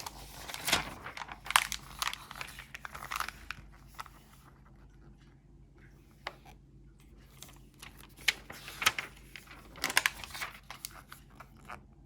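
Crinkling and rustling of LEGO set packaging being handled and torn open, in bursts of crackles through the first three seconds or so and again near the end.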